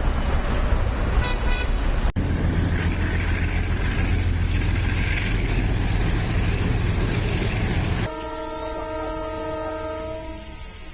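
Loud, low rumble of a heavy motor vehicle's engine, then a horn sounds one long steady note of several tones together, starting about eight seconds in and lasting about two and a half seconds.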